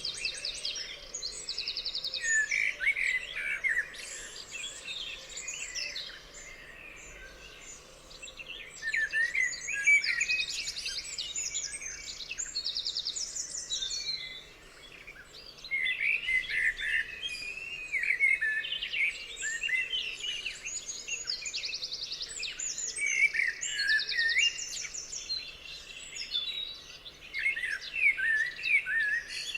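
Songbirds singing: a busy mix of quick whistled phrases and fast trills of rapidly repeated high notes, coming in bouts with brief lulls between them.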